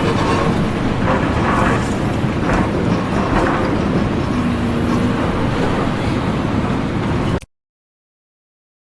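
Loud, steady noise of a heavy vehicle running, cutting off abruptly about seven and a half seconds in.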